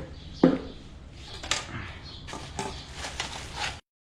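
Objects being handled and knocked together, with one sharp loud knock about half a second in and a few lighter clicks and knocks after it. The sound cuts off suddenly near the end, as the live stream's audio drops out.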